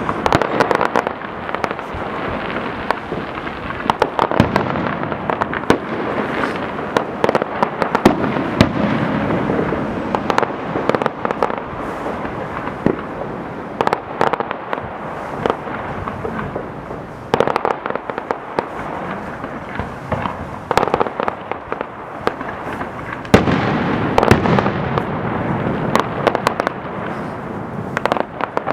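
Many fireworks going off at once: a continuous barrage of overlapping bangs and crackling, with frequent sharper bangs standing out.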